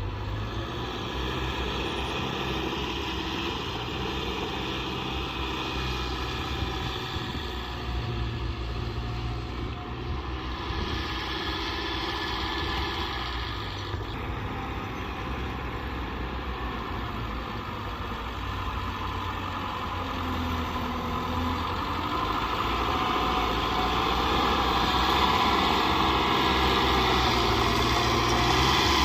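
Diesel engine of heavy earth-moving machinery running steadily, getting louder over the last several seconds.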